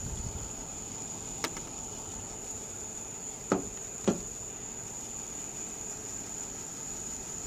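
Three short sharp clicks or knocks, a faint one followed about two seconds later by two louder ones half a second apart, over a steady high-pitched whine.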